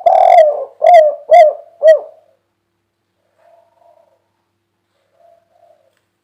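Spotted dove cooing its 'kuk 3' song: a loud run of about four or five coo notes in the first two seconds, then a few much fainter coos.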